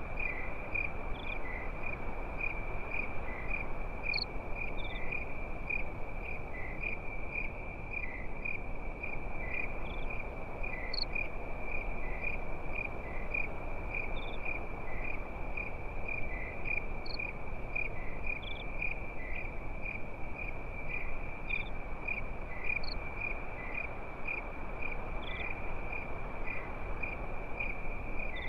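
Crickets chirping in a fast, regular pulse that never stops, with a few higher insect chirps scattered every second or two over a steady low hiss.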